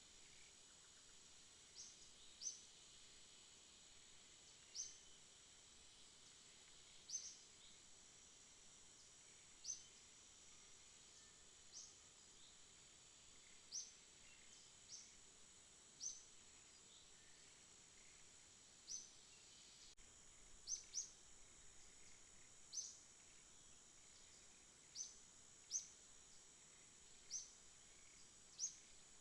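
Faint night-time insect chorus: a steady high-pitched trill, broken by short high chirps every second or two.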